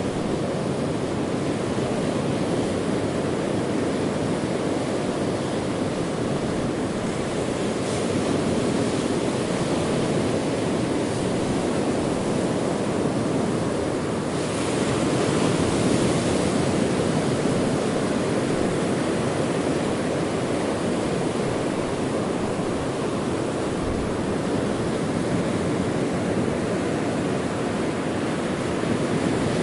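Ocean waves washing in steadily, with one stronger wave breaking about halfway through.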